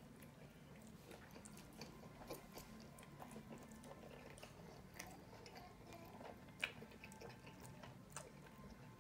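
Faint chewing and small wet mouth clicks from people eating nachos and a taco, with one sharper click about two-thirds of the way through, over a low steady room hum.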